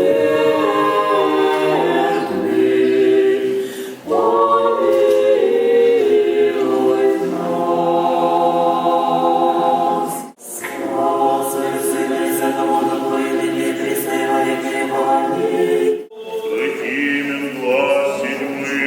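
Orthodox church choir singing a liturgical chant a cappella in several-part harmony, with brief pauses between phrases about 4, 10 and 16 seconds in.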